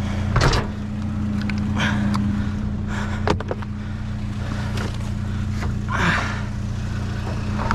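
A vehicle engine running steadily at idle, with a few knocks and a clatter of metal scrap being handled over it.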